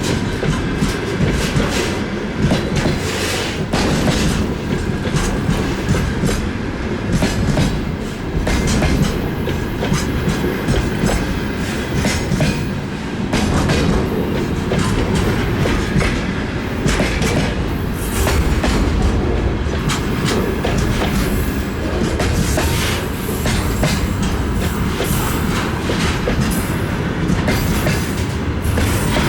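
Freight train wagons rolling past at speed: a steady, loud rumble of wheels on rail with frequent clicks and clacks as the wheelsets cross rail joints.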